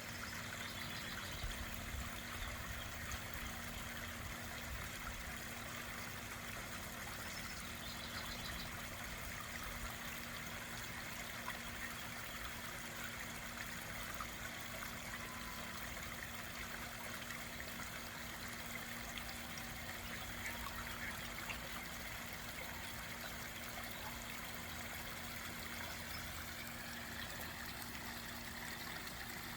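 Garden pond waterfall trickling and splashing steadily, with a faint steady low hum underneath.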